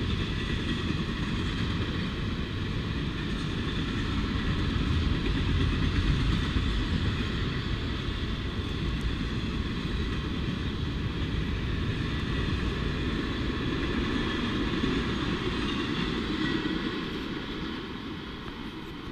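Intermodal double-stack well cars of a freight train rolling past on the rails: a steady rumble of wheels on track, with thin high steady tones above it. It fades away near the end as the last cars pull off.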